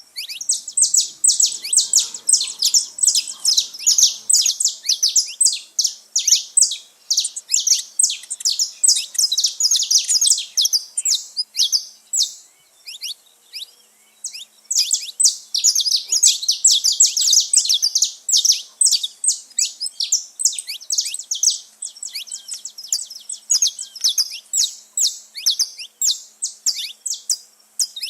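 Saffron finches singing: dense runs of fast, high chirping notes, in two long bursts with a pause of about two seconds around the middle.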